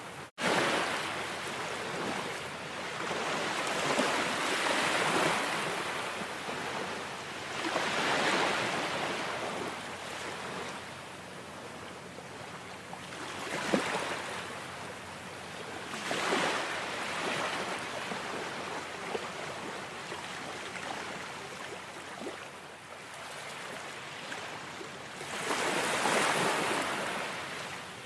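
Ocean surf: waves washing in and breaking, the rush of water swelling and fading every few seconds, with a momentary gap in the sound just after the start.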